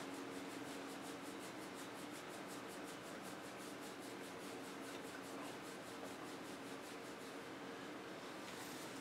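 A hand rubbing a Chow Chow puppy's thick fur: faint, quick, even scratchy strokes, about six a second, through the first half, over a steady low hum.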